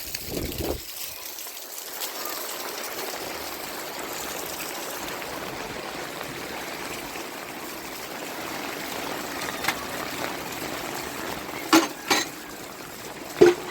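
Steady heavy rain falling, a continuous even rush, with a few sharp knocks near the end.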